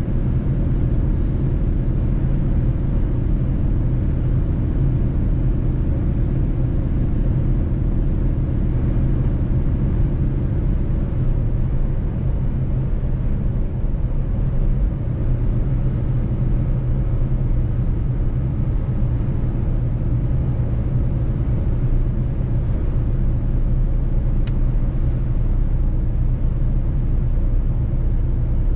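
Mercedes-Benz truck's diesel engine droning at a steady pace while driving, with road rumble.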